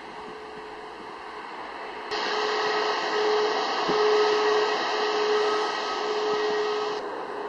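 Airbus A340-600 jet engines running, heard as a steady rushing noise with a held whining tone. The noise jumps louder about two seconds in and falls back about seven seconds in.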